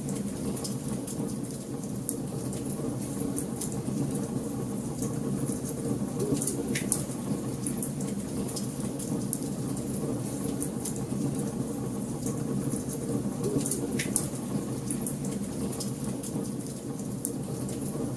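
Wood fire burning in a fireplace: a steady low rush of flame with scattered sharp crackles and pops.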